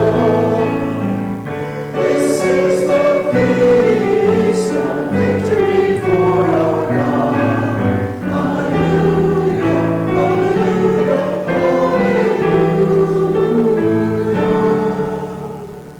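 A church congregation singing a hymn in held, chord-like notes, with piano accompaniment; the singing dies away near the end.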